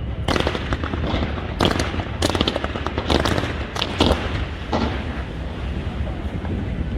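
Fireworks bursting in a rapid, uneven series of bangs and crackles, densest in the first five seconds, over a steady low rumble.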